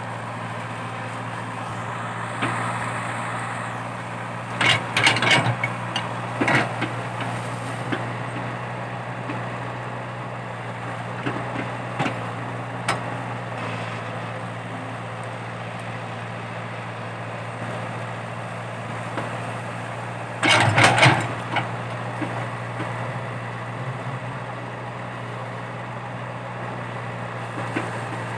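Komatsu PC80 excavator's diesel engine running steadily under working load while digging out a stump. Loud clusters of knocks and cracks come about five seconds in, again shortly after, and once more about twenty seconds in.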